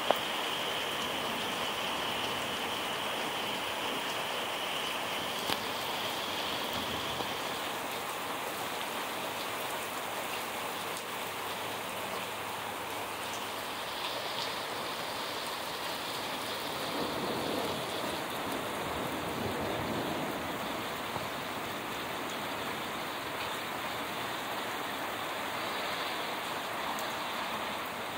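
Heavy rain from a thunderstorm falling steadily.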